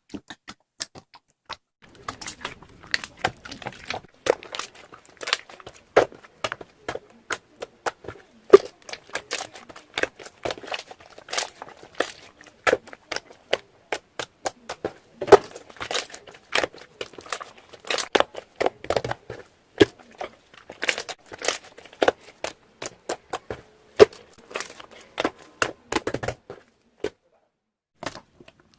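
Close-up ASMR crinkling and crackling: a dense, irregular run of sharp crackles and clicks that starts about two seconds in and stops a little before the end.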